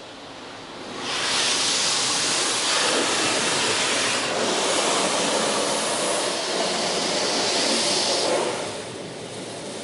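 Water jets from a Radius automatic car wash blasting the car during the high-pressure rinse, heard from inside the car: a loud hiss that starts about a second in and eases off near the end.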